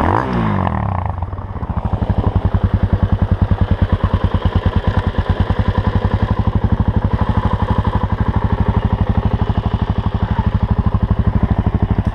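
Motorcycle engine with its revs dropping in the first second or so, then idling with a steady, even low pulse.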